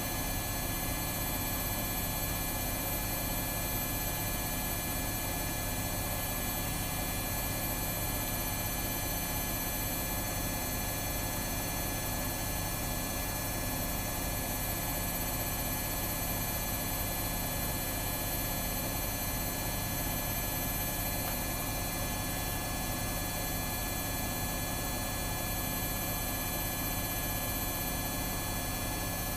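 Washing machines running steadily: an even hum with several high, steady whining tones and no change in pace.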